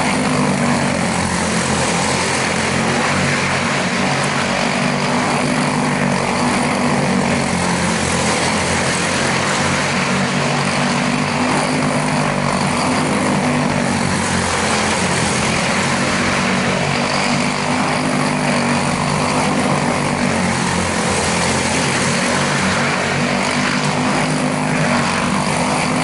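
Quarter midget race cars with unrestricted Briggs & Stratton Animal single-cylinder engines running at speed, a steady engine drone whose pitch wavers slightly as the cars lap.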